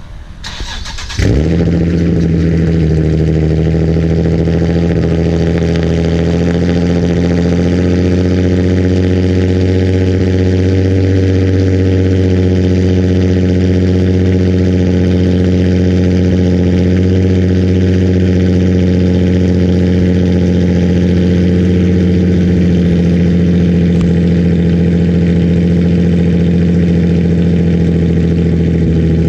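Car engine starting with one loud burst through a Tomei cat-back exhaust, heard right at the tailpipes. It settles at once into a steady, deep idle. The exhaust is described as insanely loud.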